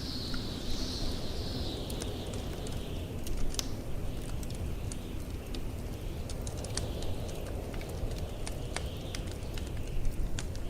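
Wood fire crackling in a fireplace, with irregular sharp pops, over the steady low rumble of blizzard wind. A high whistle of wind sinks in pitch over the first three seconds.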